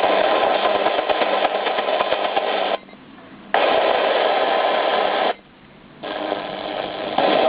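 Grundig Yachtboy 80 shortwave receiver giving out radio static and hiss between stations as it is tuned. The sound cuts out suddenly twice, about three and five and a half seconds in, then comes back.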